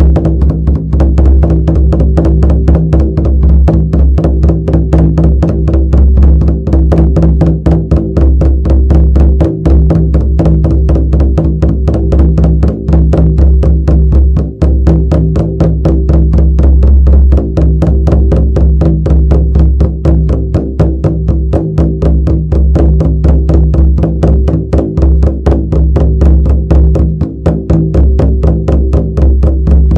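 Shamanic frame drum beaten in a fast, steady, unbroken rhythm, its deep resonance ringing on under the strikes.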